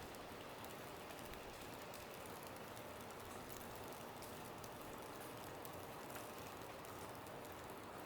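Quiet, steady outdoor hiss of falling snow with a faint, irregular patter of light ticks.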